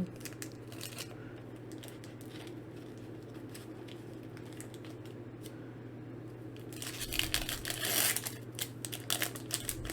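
Foil Pokémon booster pack wrappers being handled, faint at first, then crinkling and rustling more strongly from about seven seconds in as a pack is worked open. A steady low hum runs underneath.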